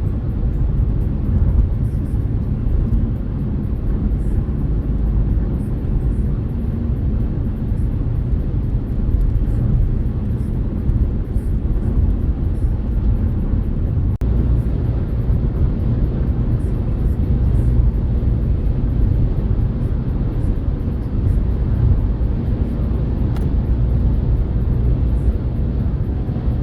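Renault Kardian driving at steady speed: a steady low rumble of road and tyre noise with engine hum.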